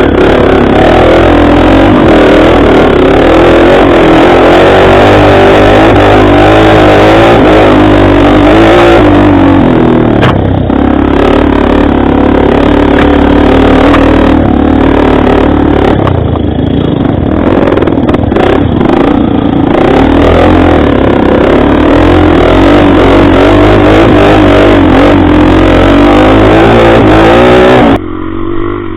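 Motorcycle engine running under way on a dirt road, loud and continuous, its pitch wavering up and down with the throttle. The sound drops away sharply near the end.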